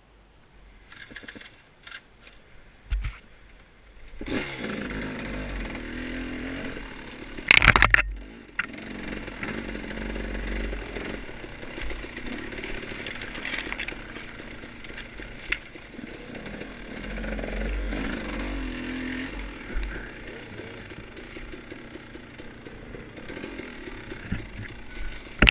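Off-road dirt bike engine running and revving on a woods trail, coming in about four seconds in, with the pitch rising and falling as the throttle changes. A loud, short, noisy blast cuts across it at about eight seconds.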